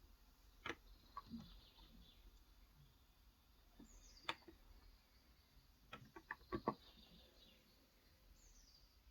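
A few scattered keystrokes on a Cox Endeavor electrostatic capacitive keyboard with light 35 g switches, with a quick run of four or five keystrokes about six seconds in. Two faint, short downward bird chirps sound in the background.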